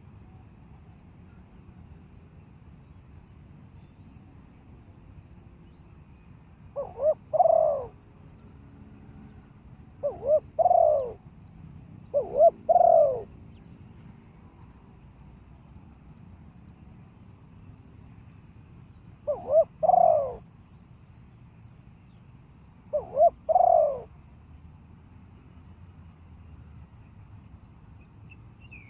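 Spotted dove cooing, five phrases spaced a few seconds apart, each a couple of short notes running into a longer rolling coo. Small birds chirp faintly behind it.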